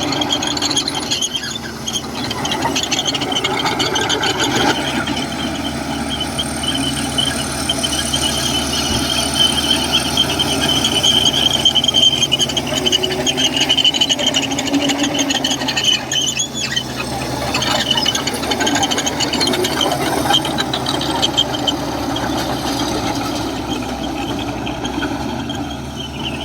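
Komatsu crawler bulldozer working, its steel tracks squealing at a steady high pitch over the running diesel engine.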